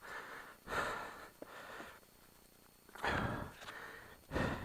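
A person breathing hard, with four heavy breaths, the loudest ones about three seconds in and near the end.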